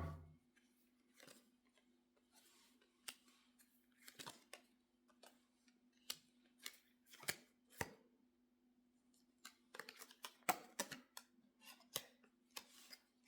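Tarot cards being handled: scattered soft clicks and snaps of cards being shuffled, turned and laid down, at irregular intervals over a faint steady hum.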